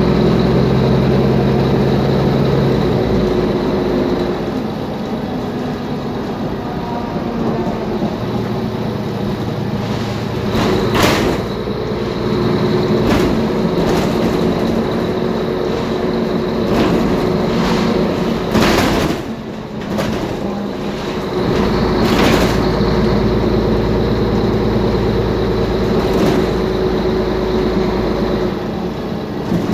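Mercedes-Benz Conecto G articulated bus's OM457LA diesel engine and drivetrain running under way, the engine note stepping down and up several times. Sharp knocks and rattles from loose, noisy parts come at about 11, 19 and 22 seconds in.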